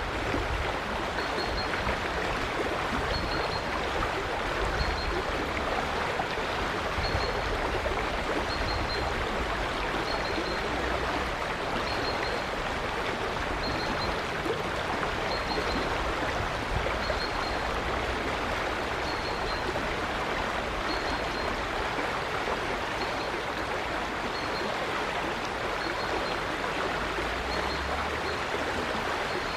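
River water flowing with a steady rush. A short, high chirp repeats about every one to two seconds, typical of a bird calling over the water.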